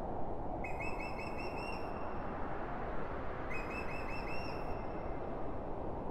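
A bird calling twice, each call a quick run of about seven short chirping notes lasting just over a second, over a steady low rushing noise.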